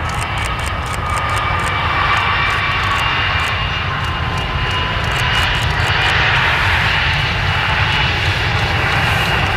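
Jet airliner's engines passing, with a steady low rumble and a whine that slowly falls in pitch. A run of faint high clicks sounds over the first few seconds.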